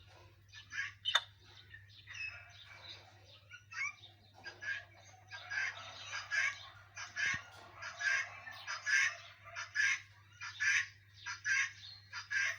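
Parrot calling with short, repeated squawks, scattered at first and then about two a second from roughly five seconds in, over a steady low hum.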